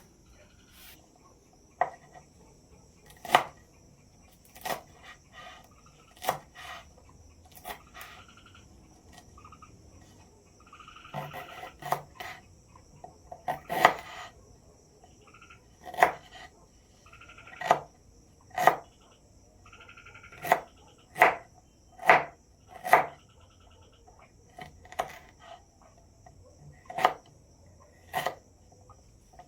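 Repeated sharp strikes, about one every second or two, each with a short ring, over a steady high chirring of insects.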